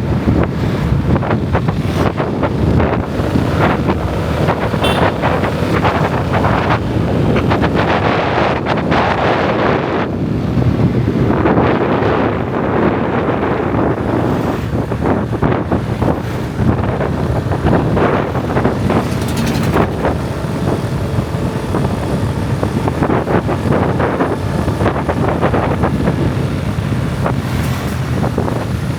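Wind buffeting the microphone over the steady engine and road noise of a motorbike being ridden.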